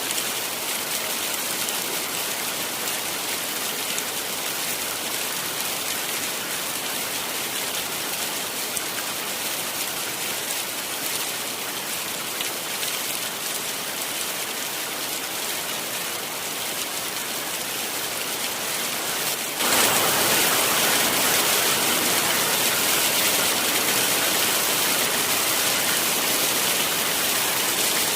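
Heavy rain falling in a steady, even hiss. About two-thirds of the way through it jumps suddenly louder and brighter, then holds steady.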